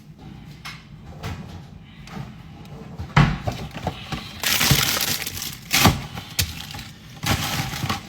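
Kitchen clatter: a few sharp knocks and clinks, like dishes and utensils being handled, with a couple of longer noisy stretches between them.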